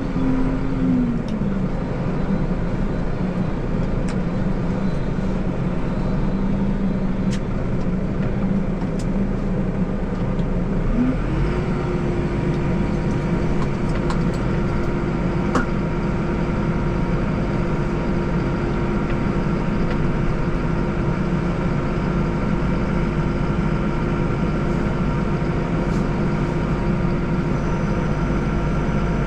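Tractor diesel engine running steadily with the snowblower engaged. The engine pitch dips slightly about a second in, then rises about midway and holds at a higher, steady speed.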